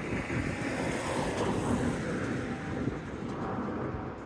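Steady rushing rumble of a freight train's wagons rolling past on the main line, with wind on the microphone.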